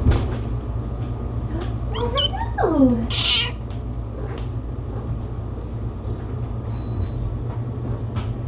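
A cat meowing: one call that slides down in pitch about two to three seconds in, followed by a short breathy rushing noise, over a steady low hum.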